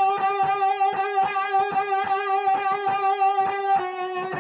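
Electric guitar holding a bent blues note with wide, violent vibrato that wavers about four times a second, stepping slightly down in pitch near the end as the bend starts to release.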